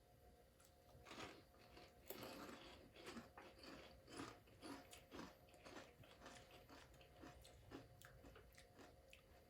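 Faint crunching and chewing of fried pork rinds being eaten, many short irregular crunches.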